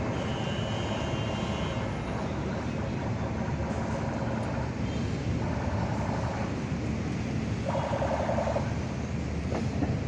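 Train running on the rails with a steady rumble, with two short higher-pitched tones in the second half.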